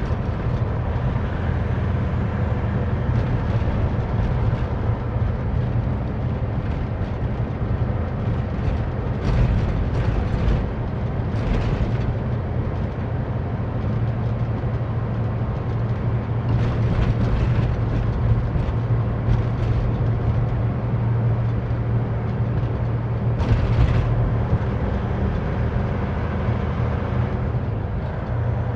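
Semi truck's diesel engine running steadily at highway cruise with road noise, heard from inside the cab, with a few brief higher hisses.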